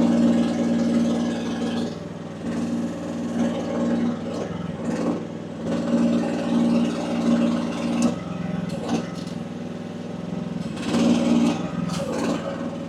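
Small engine of a 1-ton AGT WH12R mini excavator running steadily while the hydraulics are worked, a louder pump strain coming on in stretches of one to two seconds as the controls are moved. With the relief pressure set down to 1900 psi, the engine carries the load without struggling or dying.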